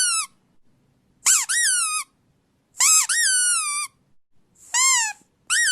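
A series of high-pitched squeaks, about one every second and a half, each jumping up in pitch and then sliding down. The last one is held longer at a steady pitch.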